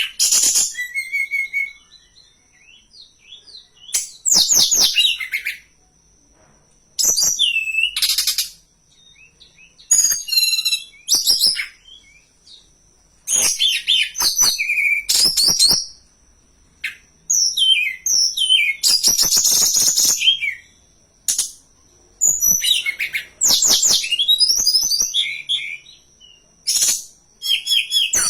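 Tledekan gunung songbird singing: repeated short bursts of rapid, high, twittering song phrases with brief pauses between them. A faint steady high whine runs underneath.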